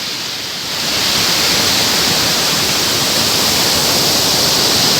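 Loud, steady rushing of a large waterfall heard from close by, a little softer for the first second before settling.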